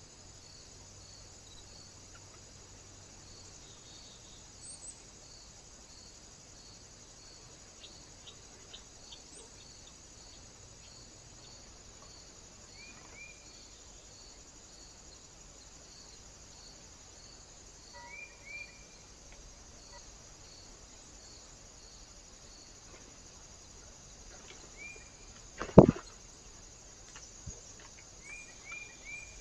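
Small birds giving a few short, high chirps in twos and threes at a bird feeder, with one sharp knock near the end that is the loudest sound. Under them runs a steady hiss with a faint, evenly repeating high ticking.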